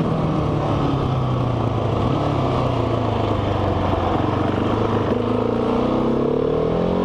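Motorcycle engine under way: the engine note drops sharply right at the start as a gear is shifted, sinks slowly while the bike rolls along, then rises again near the end as it accelerates, with steady wind and road noise underneath.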